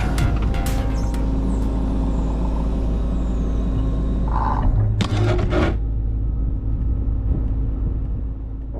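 Excavator diesel engine running steadily, with a brief squeal just after four seconds in and a short burst of hiss about a second later.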